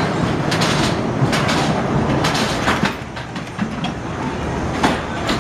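Roller coaster cars rolling and rattling along the track with irregular clacks.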